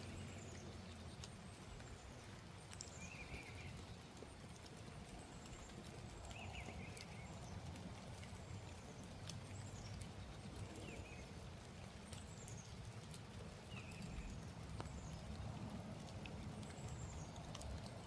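Birds calling in the background with short, falling chirps every second or two, over a steady low background rumble, with a few faint sharp clicks.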